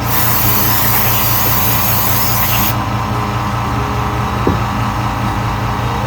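A blast of compressed air hissing from an air nozzle, cutting off abruptly about two and a half seconds in, over a steady machine hum.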